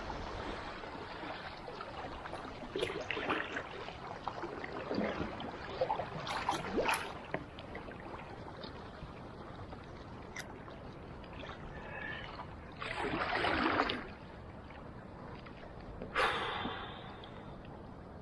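Steady rush of moving river water with the scattered splashes of kayak paddle strokes, and two louder splashes, each about a second long, in the last few seconds.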